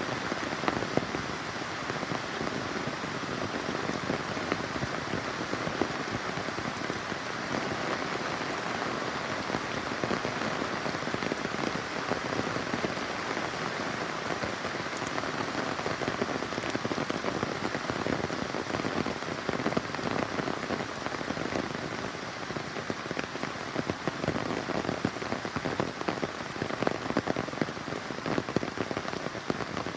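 Steady rain falling, with many close-spaced drops pattering on a surface.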